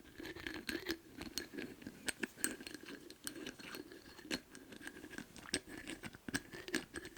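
Lids handled close to the microphone: a rapid, irregular run of sharp clicks and taps with scratchy rubbing between them.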